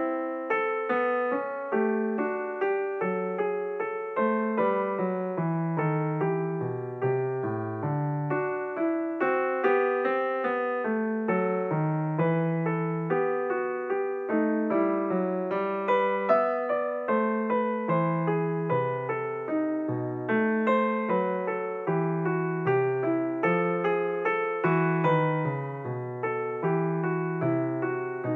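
Background piano music: a steady run of struck notes over a lower bass line, with no break.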